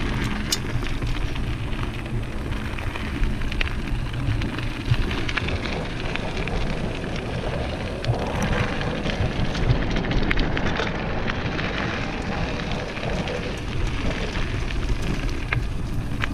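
Mountain bike rolling fast down a dirt trail: tyres crackling over dirt and small stones, with the bike rattling and ticking over bumps.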